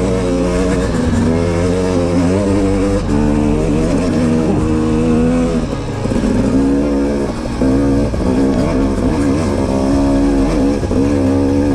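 Two-stroke KTM 250 XC-W dirt bike engine being ridden, its pitch rising and falling over and over as the throttle is rolled on and off.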